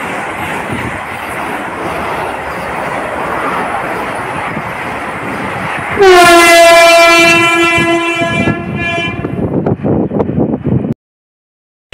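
Vande Bharat Express electric trainset rushing past at speed with a steady rush of wheel and air noise. About six seconds in its horn sounds: one loud, held blast of about two and a half seconds that fades as the train moves away. The sound cuts off abruptly near the end.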